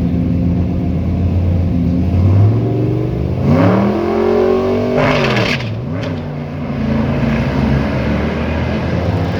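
Car engine running steadily, then revving up hard about three and a half seconds in with a loud rushing noise over it. The revs hold for about two seconds, drop sharply, then pick up again.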